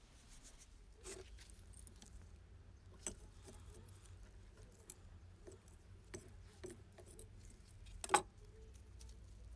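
Scattered light metallic clicks and clinks of small metal parts being handled, a few seconds apart, with one louder knock near the end, over a faint low hum.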